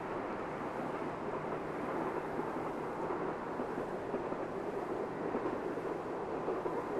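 Steady, distant running rumble of an electric multiple-unit train moving along the track, mixed with wind noise on the microphone.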